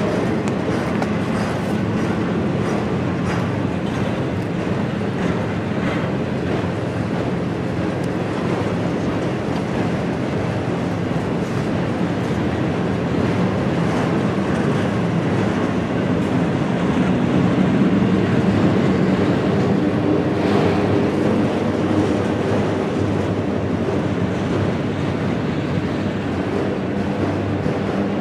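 Autorack freight cars rolling past on the track: a steady rumble of steel wheels on rail with occasional faint clicks, swelling slightly a little past halfway.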